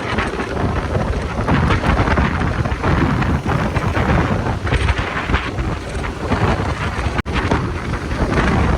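Wind buffeting the microphone of a moving motorcycle, a loud rumbling rush with the engine and road noise beneath it. The sound cuts out for an instant about seven seconds in.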